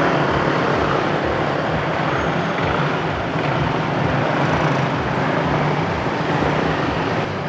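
Street traffic: a steady mix of engine and road noise with a low hum, from motor vehicles, motorbikes among them, running past.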